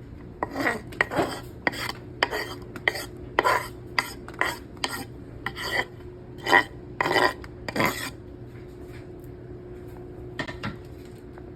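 Cutlery and dishes clattering as food is handled and served: a run of short scrapes and clinks, about two a second, that eases off after about eight seconds, with two more near the end. A faint steady hum runs underneath.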